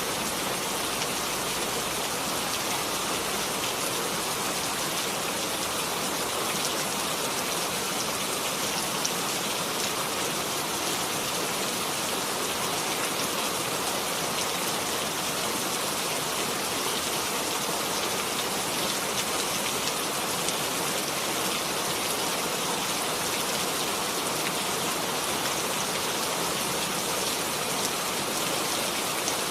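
Steady rain falling and pattering on surfaces, an even hiss with countless fine drop taps and no change in intensity.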